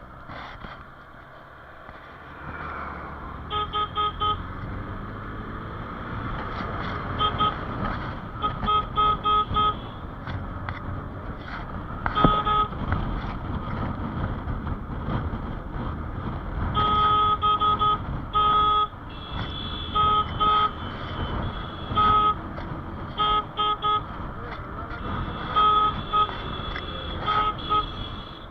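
Vehicle horn beeping again and again in short toots, often in quick runs of two to four, over steady engine, road and wind noise while riding through traffic.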